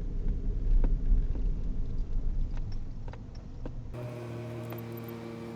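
Car on the road heard through a dashcam: low engine and road rumble with a few scattered clicks. About four seconds in it cuts off abruptly, giving way to a steady low hum with several held tones.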